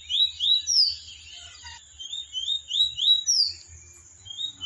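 Caged 'fire red bird' songbird singing in a bird-racing song contest: short phrases of three to five quick chirping notes, each phrase topped by a higher sweeping note, with pauses between phrases.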